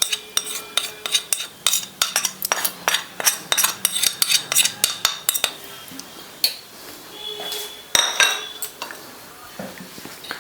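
A spoon tapping and scraping on a plate holding dry cornflour and flour: quick clinks, several a second, for about five seconds, then a few scattered clinks, the loudest about eight seconds in.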